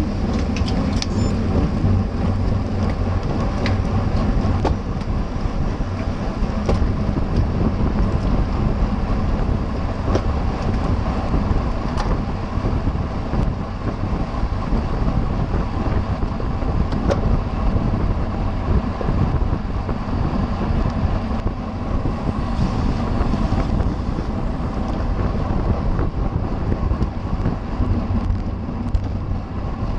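Steady wind rush and buffeting on the microphone of a camera carried on a racing bicycle riding at speed in a bunch, with a few sharp clicks in the first second or so.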